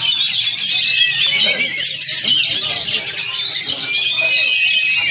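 Oriental magpie-robin (kacer) singing a fast, varied, continuous song of chirps, trills and whistles, with one long drawn-out whistle near the end.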